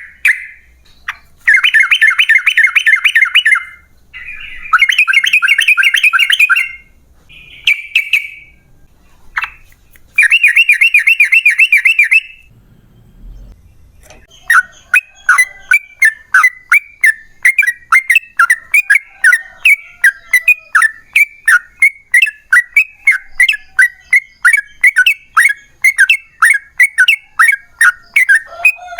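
Yellow-vented bulbul (trucukan) singing: several short, bubbly chattering phrases over the first twelve seconds, then after a short pause a long unbroken run of sharp repeated notes, about three or four a second, the long rapid-fire 'ropel panjang' song.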